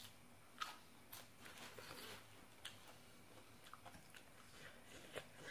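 Faint close-up chewing and mouth sounds of someone eating papaya salad with raw shrimp, with a few short, sharp crunches.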